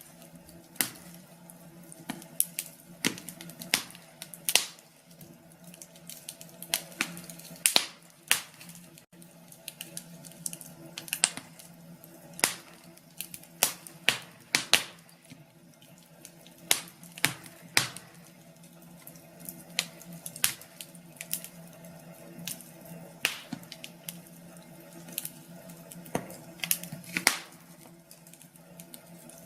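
Wood fire crackling: irregular sharp pops and snaps, a few each second and of varying loudness, over a faint steady hum.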